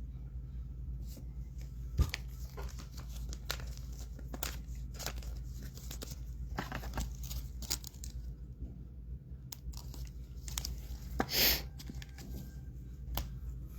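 Trading card pack wrappers being torn open and crinkled, with cards handled, in a run of irregular crackles and clicks. There is a sharp click about two seconds in and a louder rustle near eleven seconds.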